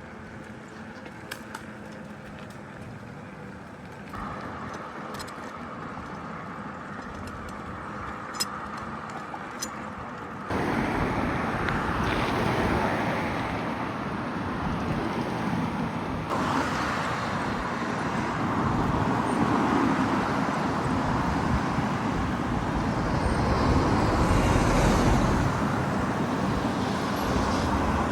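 Steady road and traffic noise from vehicles on the street, heard from a moving bicycle, with a few faint ticks in the first part. The sound jumps abruptly louder about four and ten seconds in and changes again about sixteen seconds in, and swells with a deep rumble near the end.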